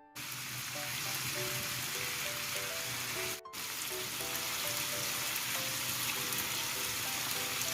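Marinated chicken pieces sizzling steadily as they shallow-fry in hot oil on high flame, with background music playing a simple melody over it. The sound breaks off for an instant about three and a half seconds in.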